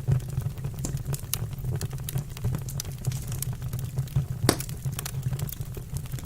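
Wood fire burning in a fireplace: a steady low rumble with irregular crackles and pops, the loudest pop about four and a half seconds in.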